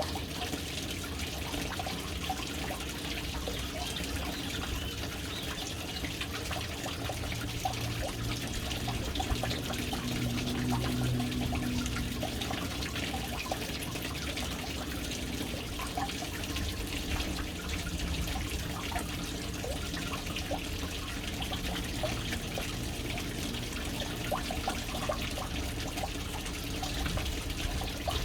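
Water falling steadily into a household water tank (caixa d'água) as it fills through its float valve, a continuous splashing trickle. A faint low hum swells briefly about a third of the way in.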